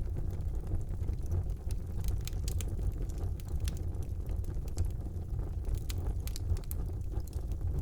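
Wood fire burning in a fireplace: a steady low rumble of the flames with sharp scattered crackles and pops from the burning logs.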